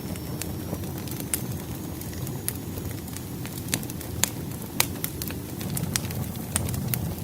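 Wood fire crackling: irregular sharp pops and snaps over a low, steady rumble of burning logs, with a few louder pops around the middle.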